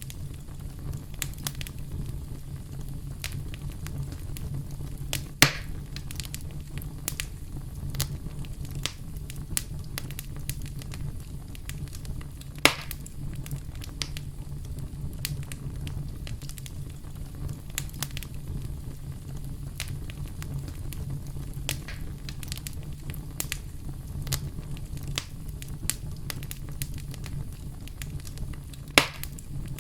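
Campfire crackling: a dense run of small wood snaps and clicks over a low steady rumble, with three louder pops spread through it.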